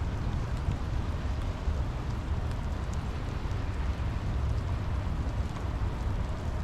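Steady rain falling, with faint scattered drop ticks over a constant low rumble.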